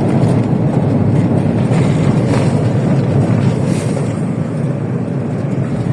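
Steady road and engine noise of a vehicle driving along a road.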